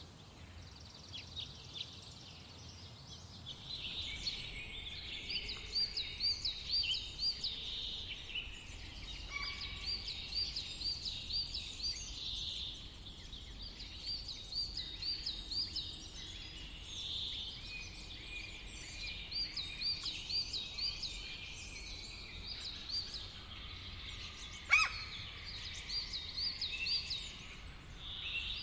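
Songbirds singing in a summer forest: one bird repeats a short phrase of quick wavy notes every couple of seconds over other high chirps, with one sharp click late on.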